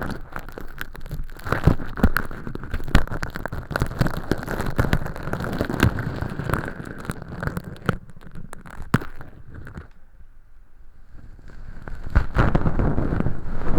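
Ear pick scraping and crackling inside a silicone ear model's canal, lifting flaky thin-skin fake earwax: a dense run of irregular crackles and scratches. It eases off about ten seconds in and grows louder near the end.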